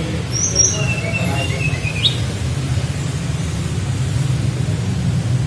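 Tledekan flycatcher singing: a few short, high whistled notes, then a thin trill ending in a quick rising note about two seconds in, over a steady low hum.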